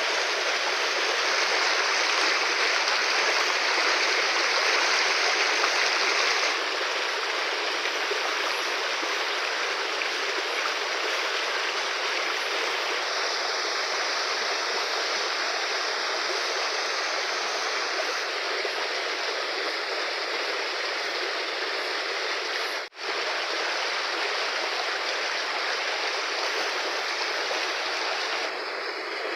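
Fast-flowing river rushing steadily. Its level and tone change abruptly a few times, and the sound drops out for a moment about three-quarters of the way through.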